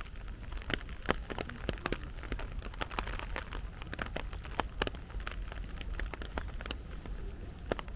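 Heavy rain falling, with many sharp, irregular drop taps close by over a steady hiss.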